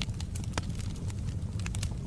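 Wood fire crackling in a fireplace: irregular sharp pops and snaps over a steady low rumble of the burning fire, with a louder pop about halfway through.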